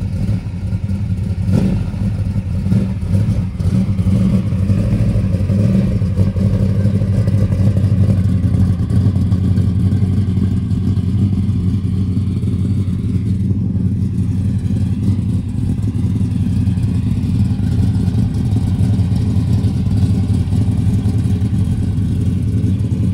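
A car engine running steadily with a low, even rumble.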